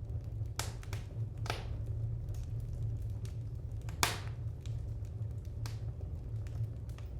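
Wood fire crackling: scattered sharp pops and snaps, about four clear ones, the loudest about four seconds in, over a steady low rumble.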